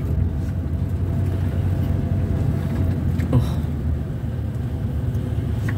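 Vehicle engine running steadily at low speed, a continuous low hum with road noise.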